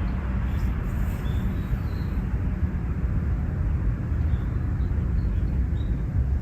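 Outdoor park ambience: a steady low rumble with a few faint, short bird chirps scattered through it.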